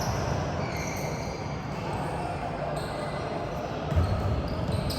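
Basketball being dribbled on a gym floor amid the steady noise of a game in a large hall, with one louder thud about four seconds in.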